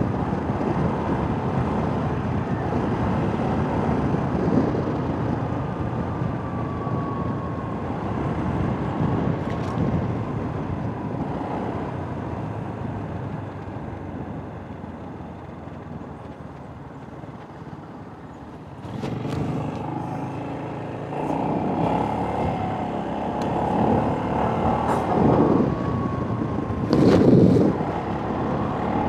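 Ride-along traffic noise from a motorcycle in city traffic: engine, tyre and wind noise, with trucks and cars passing. It eases off for a few seconds in the middle and grows louder again after that, with a brief louder swell near the end.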